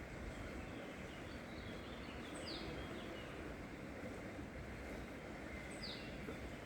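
Steady rushing of river water, with a few short bird chirps over it around two to three seconds in and two quick falling whistled notes, one in the middle and one near the end.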